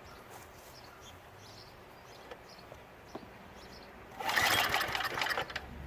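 A pull on the recoil starter of a Craftsman snowblower engine at half choke, about four seconds in: a rattling cranking burst of a second or so, the engine not catching. Faint bird chirps before it.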